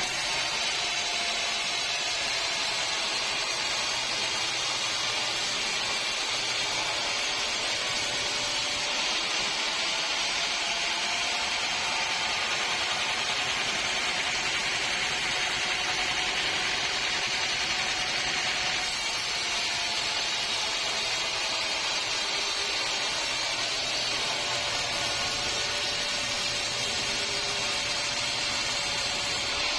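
Sawmill saw cutting through teak wood, a steady high-pitched hiss with machinery running beneath it.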